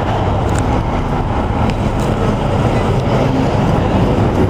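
Motor vehicle engine running steadily, a loud, even low rumble.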